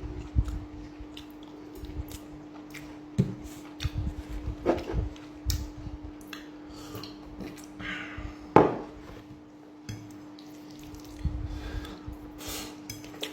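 Eating risotto: a fork or spoon clicking against the plate now and then, and soft mouth sounds of chewing, with a steady low hum underneath.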